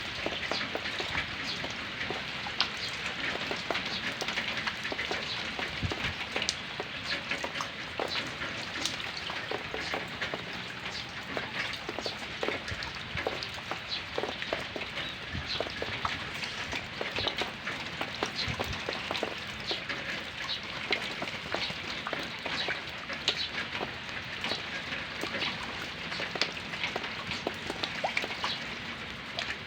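Steady rain falling, with many sharp drips and drops pattering on a surface close by.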